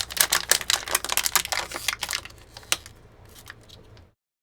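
Rapid clicking of computer keyboard keys, dense for the first couple of seconds and then sparser, as the paused music video is skipped back to replay a part. The sound cuts to dead silence near the end.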